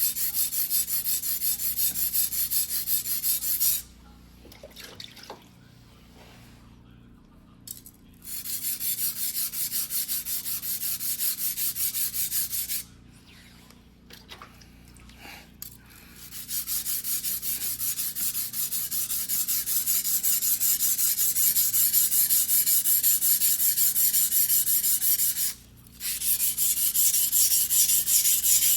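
Single-bevel white-steel fuguhiki sashimi knife (Mizuno Tanrenjo, 270 mm) being sharpened by hand on a whetstone: fast, rhythmic back-and-forth scraping strokes of steel on stone. The strokes stop for a few seconds about 4 s in and again about 13 s in, and briefly near the end.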